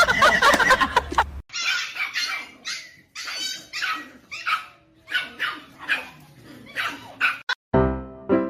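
A dog barking and yipping in a quick series of about a dozen short, high barks. Before them, a different loud sound cuts off suddenly, and another sound begins near the end.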